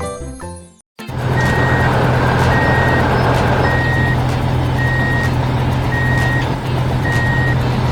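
A short jingling music cue ends, and about a second in a truck's engine starts running steadily while its reversing alarm beeps about once a second.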